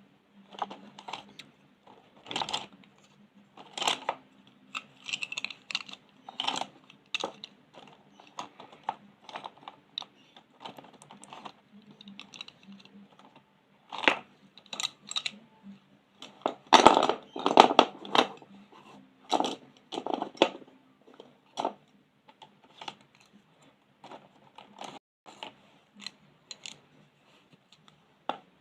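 Colouring on paper with pens and coloured pencils: irregular small taps, clicks and strokes, with a louder, denser flurry about two-thirds of the way through.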